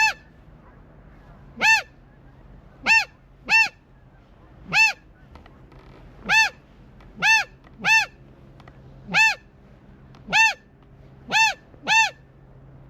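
Goose honks: about a dozen short single honks spaced roughly a second apart, each breaking from a brief low note up into a higher honk.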